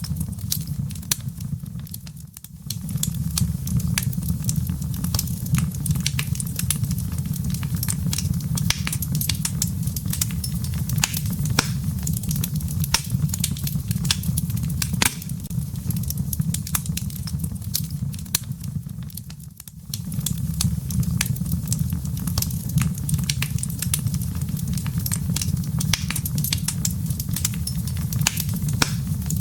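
Wood fire burning in a fireplace: a steady low rumble of flames with dense, irregular crackles and pops from the burning firewood. The rumble dips briefly about two seconds in and again about two-thirds of the way through.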